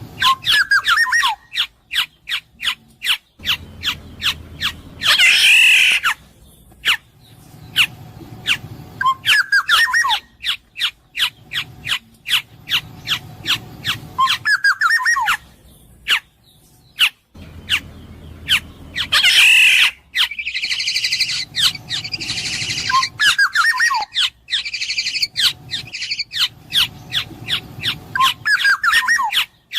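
Black-naped oriole calling: short fluty whistled phrases with falling slurs, repeated every few seconds, alternating with harsh, nasal squawking calls. A rapid series of sharp ticks runs underneath.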